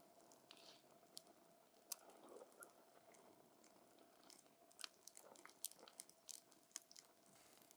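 Wood fire crackling: irregular sharp pops and snaps of burning wood, the strongest a little after the middle, over a faint steady hiss.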